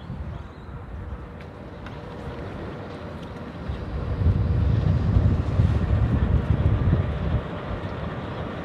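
Low rumble of a train, swelling about four seconds in and easing off again near the end.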